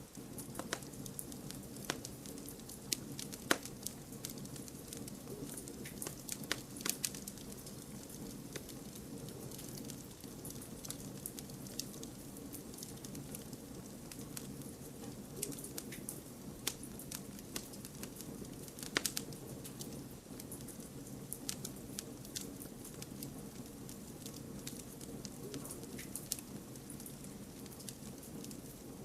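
Campfire burning steadily with a low hiss, crackling with irregular sharp pops and snaps, a few louder than the rest.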